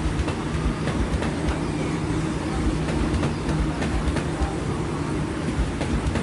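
A Sydney Trains Oscar (H-set) double-deck electric train passing through the station. Its wheels click over the rail joints above a steady rumble.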